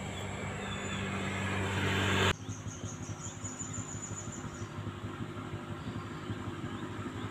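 A steady engine-like hum growing louder, cut off abruptly a couple of seconds in. It gives way to quieter outdoor ambience with an insect's rapid pulsing chirp for about two seconds.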